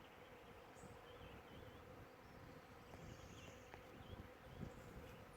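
Faint, steady buzzing of bees.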